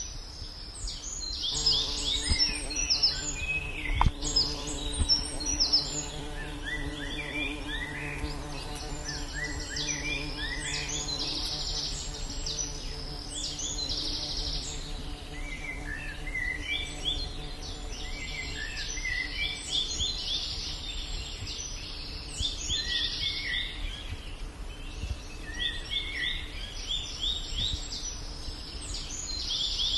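Birds calling over and over in quick, high chirping notes in a tree canopy. Under them a steady hum of several even pitches starts about two seconds in and fades out a few seconds before the end.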